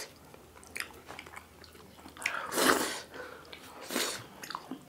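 Close-miked mouth sounds of people eating soft, wet food (millet dhido and chicken curry) by hand: chewing and scattered lip smacks, the loudest and longest wet smack about two and a half seconds in.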